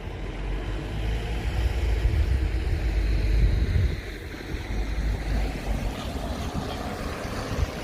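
Wind buffeting the microphone: a low rumble that builds and then drops away about four seconds in, over a steady wash of outdoor street noise.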